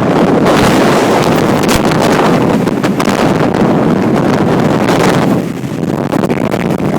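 High wind of around 50 to 60 mph blasting across the microphone: a loud, gusting rush that eases a little about five and a half seconds in.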